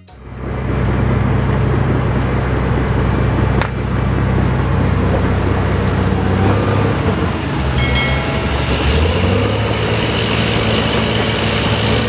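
Dump truck's diesel engine running steadily and loudly under a heavy load of soil, with a single sharp click about three and a half seconds in.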